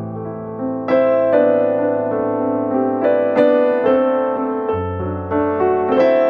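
Slow, calm piano background music, notes struck every second or so and left ringing over held bass notes.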